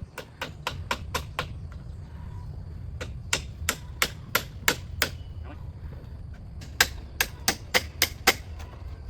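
Hammer blows in three quick runs of about six to eight strikes each, roughly four a second, as in driving nails during bamboo house construction.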